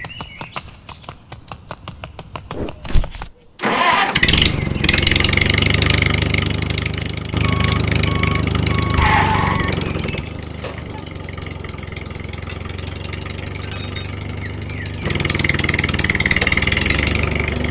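Tractor engine starting. Rapid even ticking of cranking, then a loud catch about three and a half seconds in, and the engine running steadily, its level stepping up and down a few times. A short beeping tone sounds near the middle.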